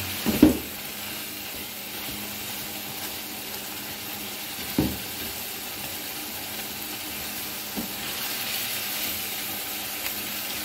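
Minced mutton and tomato masala sizzling in a nonstick kadai as it is stirred and scraped with a spoon during the bhuna (dry-frying) stage. A few brief knocks of the spoon on the pan, the loudest about half a second in, then near five and eight seconds.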